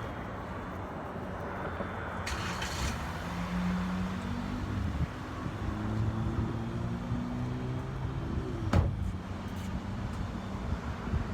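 Car engine idling with a shake that runs through the whole car, which the owner puts down to a bad motor mount after an engine replacement. A short hiss comes about two seconds in, and a single sharp knock about nine seconds in.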